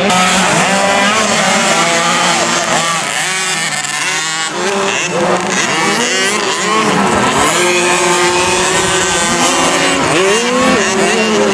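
Several 50cc two-stroke motocross bikes racing, their engines revving up and down with the pitches overlapping and constantly rising and falling.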